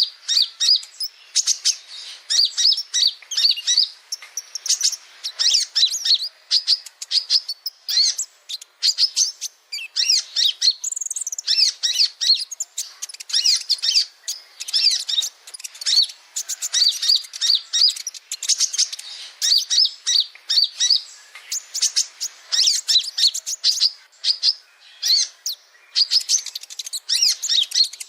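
Male kolibri ninja (sunbird) singing: rapid, high-pitched twittering chirps in quick phrases broken by brief pauses.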